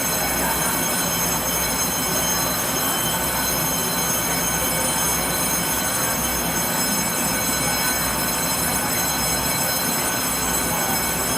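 A train running steadily: a constant rumble and rushing noise with a few faint, steady high-pitched tones over it.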